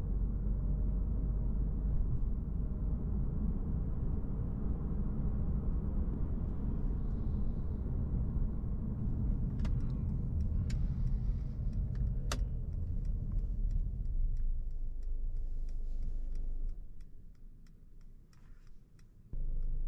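Cabin sound of a 2020 Mercedes-Benz C200 Coupé's 1.5-litre four-cylinder petrol engine and tyres as the car slows to a stop. A steady ticking, typical of the turn indicator, starts about halfway through. Once the car is stopped the engine sound cuts out, typical of automatic stop-start, leaving only the ticking, then the engine sound comes back abruptly near the end.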